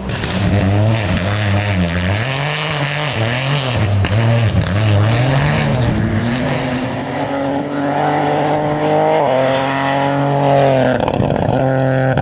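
Rally car engine revving, its pitch rising and falling several times in quick succession, then pulling up on a longer climb with a sudden drop in pitch about nine seconds in, as at an upshift.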